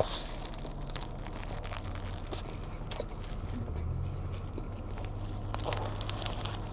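Paper sandwich wrapper crinkling and tearing in short scattered bursts, with a steady low hum underneath.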